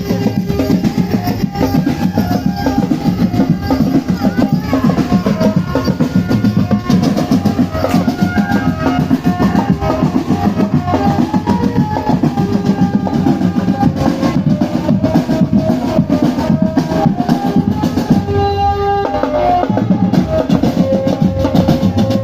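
A marching drum band playing: dense, continuous drumming with bass drum and rolls under a melody of held notes. The drumming thins briefly about nineteen seconds in while the melody holds a note.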